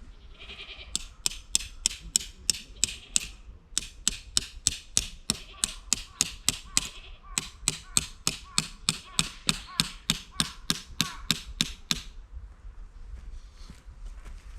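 Hammer driving tent pegs into the ground: fast, even strikes about three to four a second, in three runs with short pauses between.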